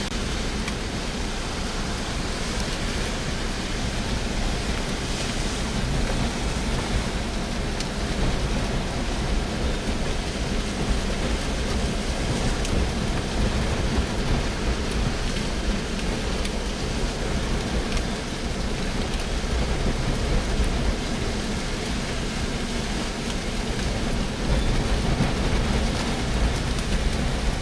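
Tropical storm wind and rain: a steady, even rush of noise with a heavy low rumble and no breaks.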